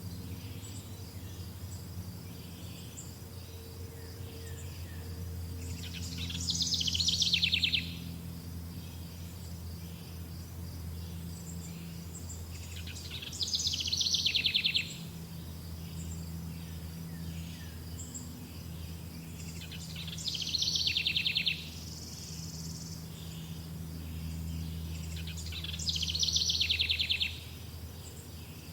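A songbird sings a short, fast, falling trill four times, about every six or seven seconds, over a steady high pulsing chirr and a low hum.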